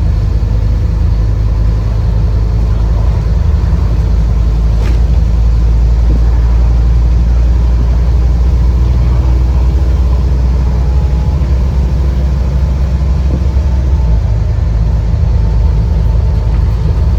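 Scania N230UD bus's five-cylinder diesel engine heard from inside the passenger cabin, a heavy low rumble while the bus is under way. A single sharp click about five seconds in; the deep drone eases slightly near the end.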